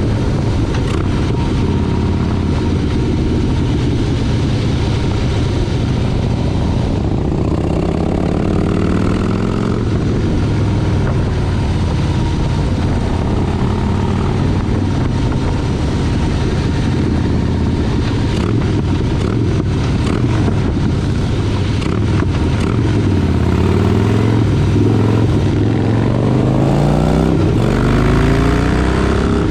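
Motorcycle engine running while riding, climbing in pitch under acceleration twice, once about a quarter of the way in and again near the end, over a steady low rumble.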